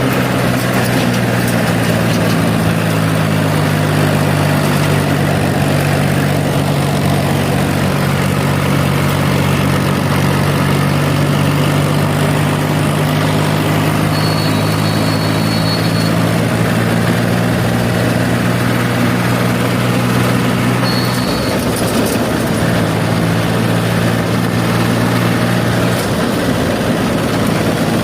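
A heavy diesel engine runs steadily at a constant speed, and its note shifts slightly about two-thirds of the way through. A short, high, steady tone sounds twice over it.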